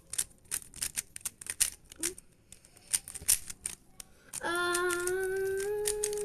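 Rapid, irregular clicking of a magnetic 3x3 speed cube's layers being turned during a solve. After about four seconds a voice hums one long, slightly rising note over it.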